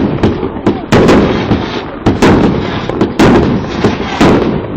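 Fireworks display going off: a rapid series of sharp bangs, the loudest about once a second, with smaller pops and crackle between.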